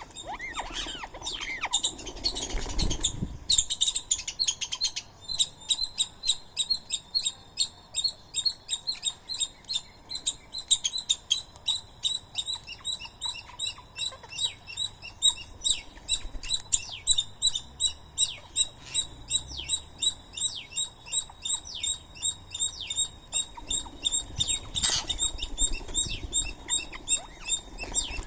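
A long, steady run of short, high chirping calls from a small animal at the feeding spot, about three a second, with a brief rustle or flap near the end.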